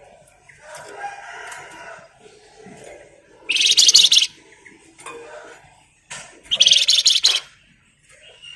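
Flamboyan (Wergan Jawa) songbird singing: softer chattering notes, then two loud, very fast rattling trills about three seconds apart, the rapid "ngebren" burst song.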